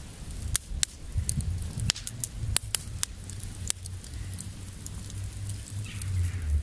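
Campfire crackling: irregular sharp pops and snaps of burning wood, over a steady low rumble.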